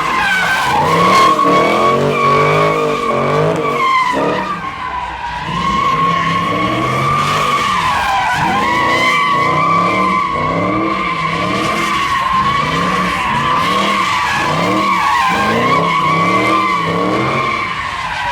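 A car spinning donuts: its tyres squeal in one long, steady scream while the engine revs rise and fall about once a second as the driver works the throttle.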